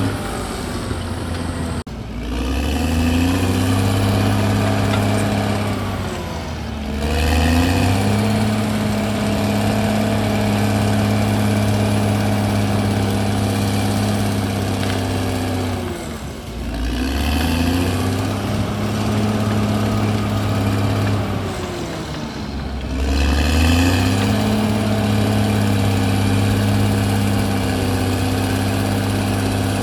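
CAT D6R bulldozer's diesel engine running hard under load, its engine speed sagging and climbing back again about four times as the blade and tracks take up and drop the load.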